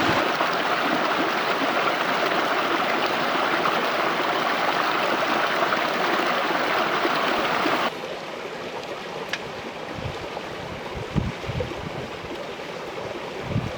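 Mountain stream rushing over rocks, a steady hiss of running water. About eight seconds in it drops suddenly to a quieter level, and a few low thuds follow near the end.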